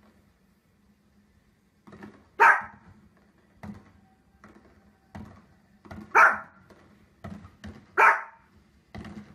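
Small dog barking three sharp, separate barks, a few seconds apart, with fainter thumps and pops in between.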